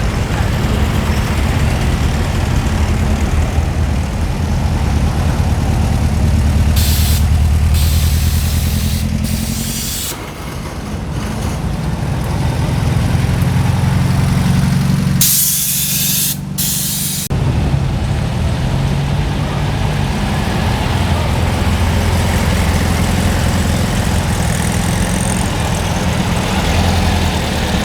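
Vintage Volkswagen engines running and idling as cars pull in, a steady low hum that rises and falls. Several short hisses cut through, the longest lasting about two seconds just past the middle.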